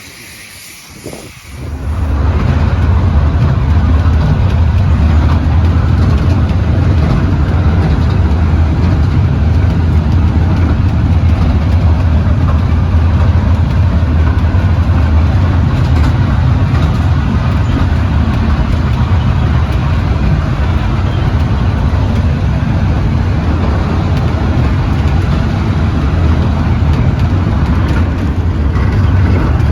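A railway carriage in motion: a loud, steady low rumble with running noise over it, starting abruptly about two seconds in after a quieter hiss.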